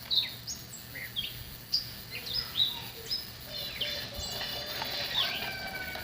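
Small birds chirping: many short, quick chirps, mostly falling in pitch, with a few longer whistled notes near the end.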